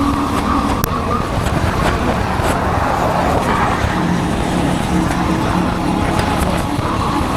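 Motorcycle engine running while riding, heard from a helmet-mounted camera over steady road and wind noise. The engine note sits lower from about four seconds in.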